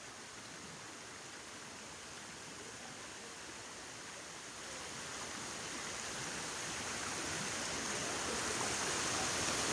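Waterfall water rushing: a steady, fairly faint hiss that grows gradually louder through the second half.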